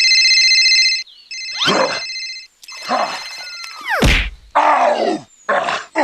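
Cartoon sound effects: an electronic ringing tone sounds three times, about a second each. Then comes a falling swoop that ends in a low thud, followed by several short noisy whooshes.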